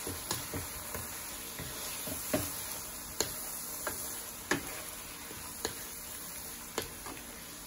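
Chicken pieces sizzling in hot fat in a nonstick wok while a wooden spatula stirs them together with ground spices. Now and then a stroke of the spatula gives a sharp tap against the pan.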